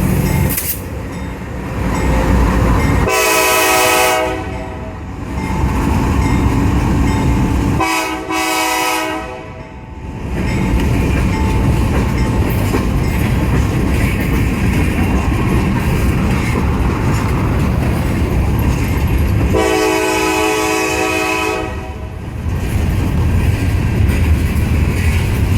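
Nathan K5LA five-chime air horn on a lead CSX GE diesel locomotive, very loud, sounded in three blasts: about a second and a half near the start, a shorter one a few seconds later, and a longer one some ten seconds on. Between and after the blasts the locomotives and freight cars rumble past on the rails.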